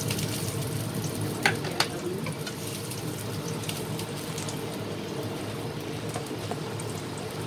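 Ginger sizzling in hot oil in a stainless steel pan, stirred with a spatula that taps the pan twice about one and a half seconds in, over a steady low hum.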